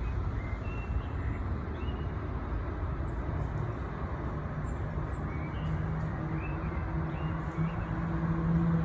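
Outdoor spring ambience: small birds chirping faintly and intermittently over a steady low rumble of traffic or wind. About halfway through, a steady low hum, like an engine, comes in and grows louder.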